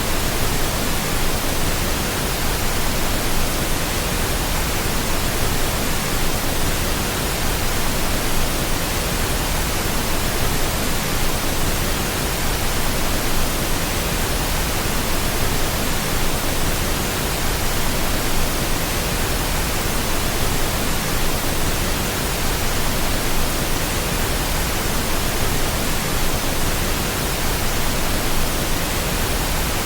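Steady pink noise: an even, unchanging hiss spread across all pitches, with no events or rhythm.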